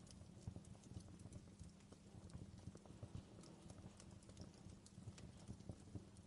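Wood fire crackling in a fireplace: quiet, irregular pops and snaps over a low, steady rumble.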